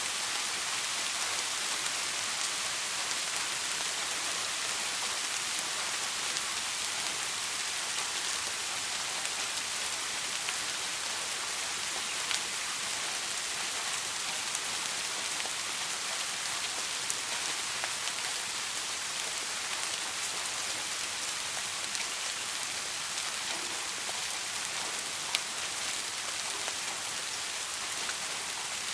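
Soft, steady rain falling on a surface, an even hiss with scattered individual drops ticking sharply through it.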